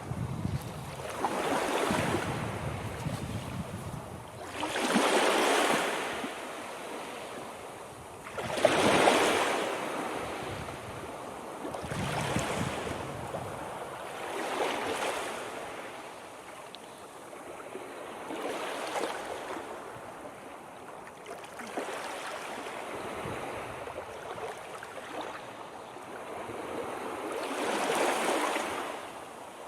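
Ocean surf: waves breaking and washing in, one surge of rushing water every three to four seconds, the strongest about five and nine seconds in.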